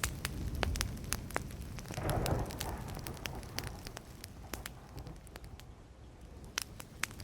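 Burning wood fire crackling, with frequent sharp pops and snaps over a low rumble. A brief swell of noise comes about two seconds in, and the crackling thins out and quietens after about four seconds.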